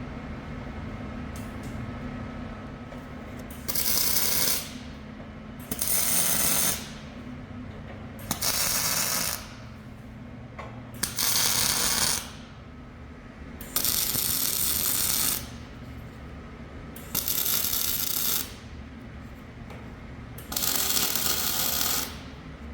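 MIG welder laying seven short tack welds on steel bracing, each a crackling hiss lasting about a second, a couple of seconds apart.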